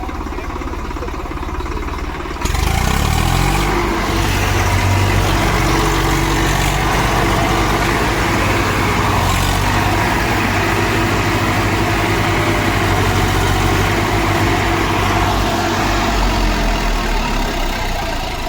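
Tractor diesel engine idling, then revving up sharply about two seconds in and running hard at high revs under heavy load, as in a tractor tug-of-war; the note eases back near the end.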